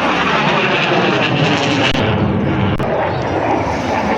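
Loud, steady noise of a jet aircraft flying past. Its hiss fades about two seconds in as it moves away.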